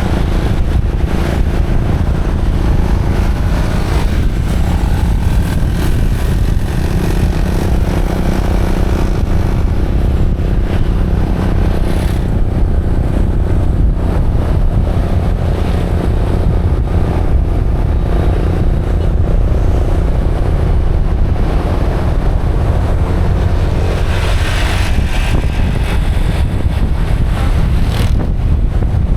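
Motorcycle riding along, its engine running under a steady low rumble of wind on the microphone.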